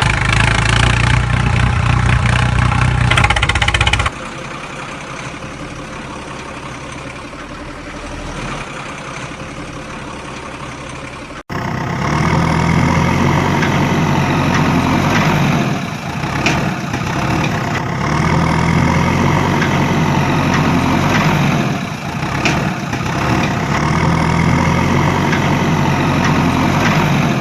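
Engine running. About four seconds in it drops to a quieter run, and about eleven seconds in it cuts abruptly to a louder engine sound that repeats the same rise and fall about every five seconds.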